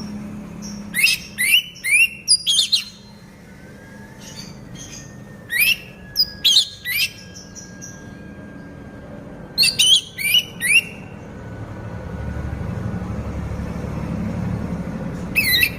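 Orange-headed thrush (anis merah) singing in moult, giving loud, sharp chirping phrases in four short bursts a few seconds apart. A low rumble rises in the background in the second half.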